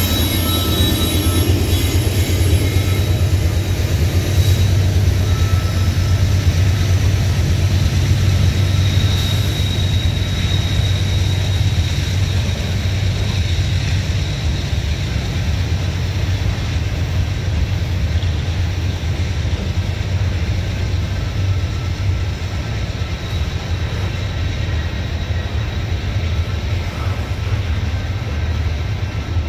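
CSX coal hopper cars rolling past close by, a steady heavy rumble of steel wheels on the rails that eases slightly over the half-minute.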